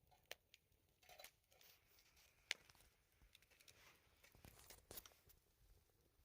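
Near silence with faint scattered clicks and light crinkling, one sharper click about two and a half seconds in.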